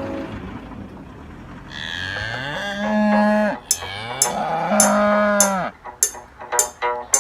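A cow mooing twice, each call rising in pitch and then held. Music with a steady beat comes in near the end.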